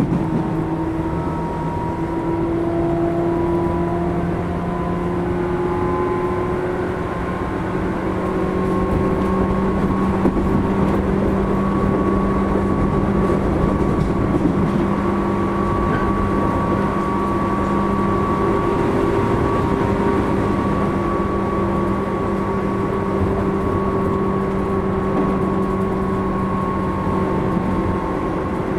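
Tobu 10000 series electric train running between stations, heard inside a motor car: steady rolling rumble under a motor and gear whine that rises slightly in pitch over the first several seconds, then holds steady.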